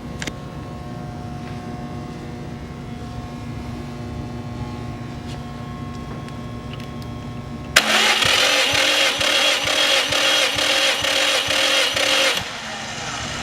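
Subaru EJ207 turbocharged flat-four cranked over by its starter without firing, as for a compression test. A steady hum gives way about eight seconds in to a sudden, loud, evenly pulsing cranking sound, which stops abruptly about four and a half seconds later.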